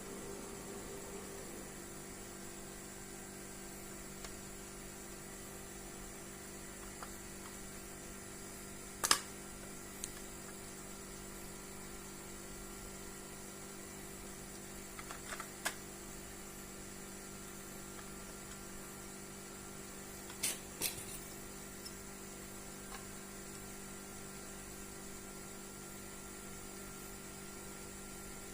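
Steady low electrical hum with a faint hiss, broken by a few sharp clicks and taps. The loudest click comes about nine seconds in, and there is a small cluster of them near the middle and another just past twenty seconds.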